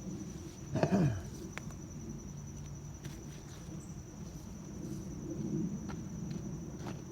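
Steady high-pitched insect trill, typical of crickets, over a low outdoor hum. About a second in comes a short vocal sound that falls steeply in pitch, the loudest thing heard.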